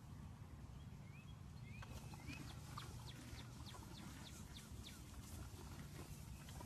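Small birds chirping in a quick run of short high notes, over a steady low rumble.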